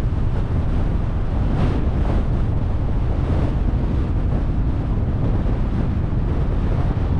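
Steady road and wind noise from a moving car, with wind buffeting the microphone as a deep, even rumble. It swells slightly about a second and a half in and again around three and a half seconds in.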